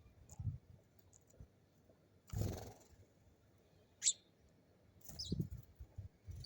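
A small bird gives a few short, high chirps about four and five seconds in. Soft low thumps and a brief rustle come in between.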